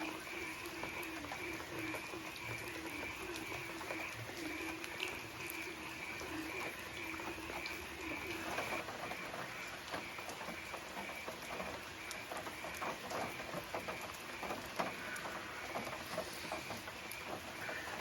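Rain pattering, with many small drop ticks that thicken through the middle. A faint, steadily pulsing chorus in the background drops out partway through and returns near the end.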